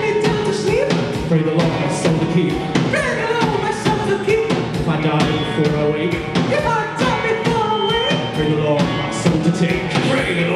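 Rock band playing live: a drum kit keeps a steady beat under a bending melodic line.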